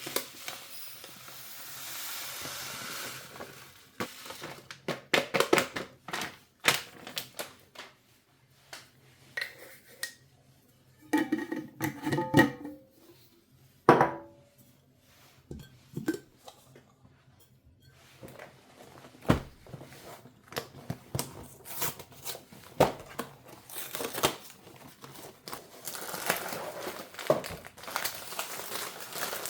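Household handling noises: scattered knocks and clicks of objects being set down and moved, a few ringing clinks like dishes, and short rustles of packaging.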